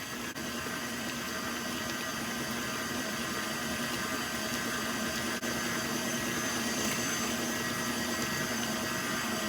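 Stand mixer with paddle attachment running steadily, beating eggs into creamed butter, shortening and sugar.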